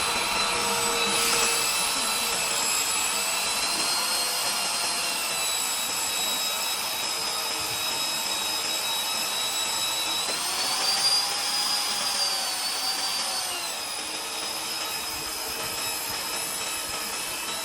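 Electric drill motor whining steadily while drilling into a steel truck frame; its pitch rises about ten seconds in and settles back a few seconds later.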